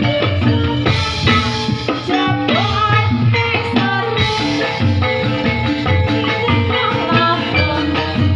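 Topeng Ireng accompaniment music played without a break: steady drumming under many quick melodic percussion notes.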